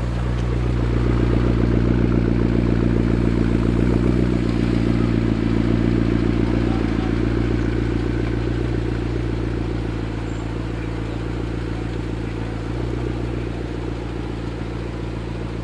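McLaren 12C's twin-turbo V8 running steadily at low revs, its exhaust giving a deep, even note that holds one pitch, swelling a little early and slowly easing off.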